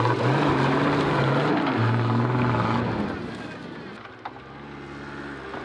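Off-road 4x4's engine revving hard under load, its pitch stepping up and back down, then easing off to a quieter run about three seconds in. A short sharp click a little after four seconds.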